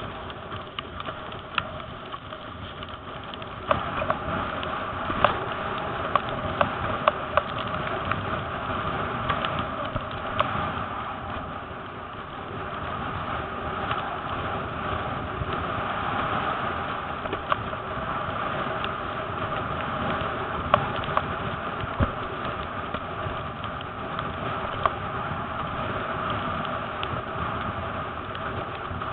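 Gusty wind on the microphone with water rushing and many sharp knocks, the wind swelling and easing.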